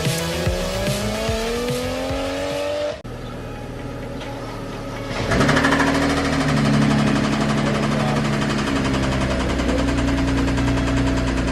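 Car engine revving up as it accelerates, its pitch rising steadily, then cut off abruptly about three seconds in. It is followed by steady held tones that change pitch in steps, with background music.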